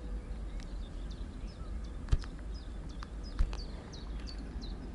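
A small bird calling over and over with short, high chirps. A few sharp clicks cut through, the loudest about two and three and a half seconds in, over a low rumble.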